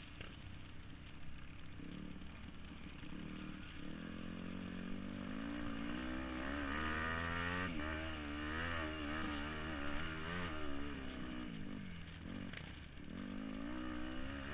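Motocross bike engine running hard, its pitch repeatedly rising and falling as the throttle opens and closes through the gears, loudest and most wavering in the middle.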